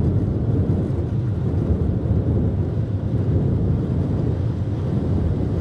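Car wash air dryer blowers running, a steady low rush of blown air.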